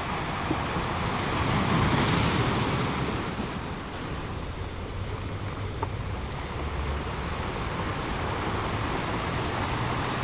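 Ocean surf: waves washing in as a steady rushing hiss, with one swell that builds about two seconds in and then draws back.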